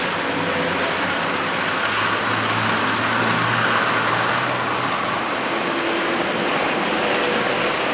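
Model trains running on a layout: a steady whirring rumble of small electric motors and wheels on the track.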